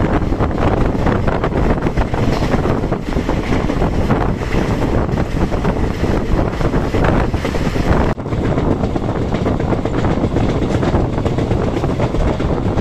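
Express passenger train running at speed, heard from an open coach doorway: steady loud rumble of the coach on the rails, with rushing wind buffeting the microphone. The sound dips for a moment about eight seconds in.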